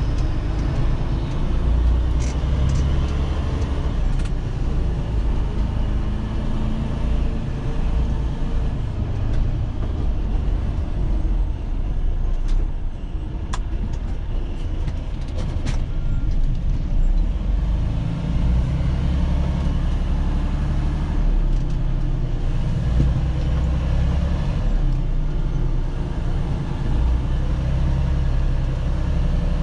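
Semi-truck's diesel engine running at low speed as the tractor-trailer is backed straight into a spot, a steady low rumble that swells and eases, with a few short clicks along the way.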